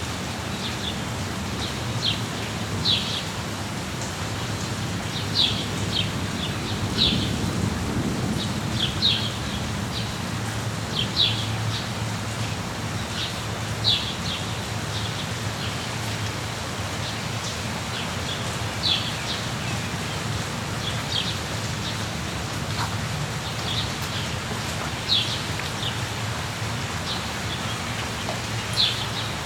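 Steady rain with a low rumble beneath it, and songbirds giving short, high chirps every second or two.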